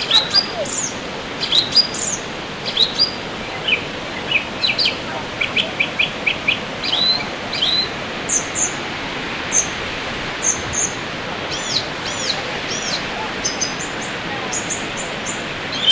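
Wild birds chirping and calling repeatedly over a steady rushing noise of falling water from a waterfall. Midway there is a quick run of short repeated notes, about four a second, and later some arching whistled notes.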